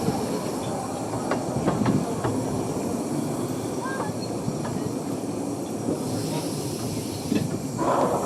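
Ravenglass & Eskdale Railway 15-inch gauge train rolling slowly into the station, a steady rumble with scattered clicks of wheels over rail joints. A short louder burst comes near the end.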